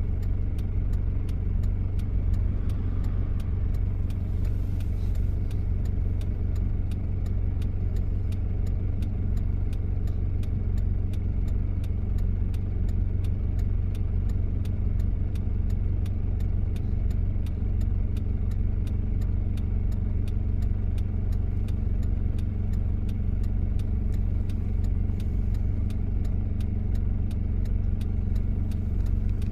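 1993 Toyota Prado's diesel engine running steadily, a constant low drone with no change in revs.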